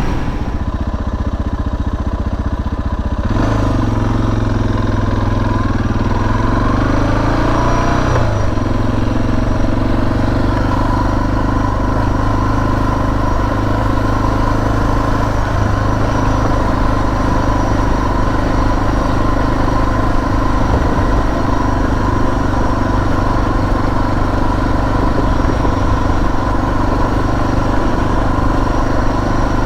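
Suzuki DR650's single-cylinder engine running under way. It accelerates with rising pitch from about three to eight seconds in, then holds a steady cruising speed.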